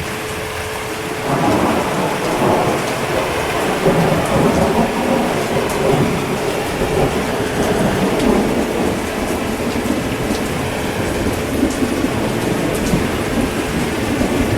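Steady heavy rain with a long roll of thunder that swells up about a second in and keeps rolling.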